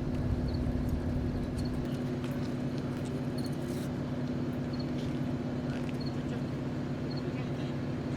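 A steady low mechanical hum, like an idling engine, runs throughout. Faint short high double chirps repeat every second or so.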